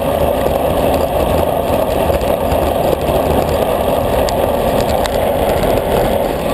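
Steady wind rush over the microphone of a camera riding on a road bicycle at race speed, with a low rumble from the road underneath.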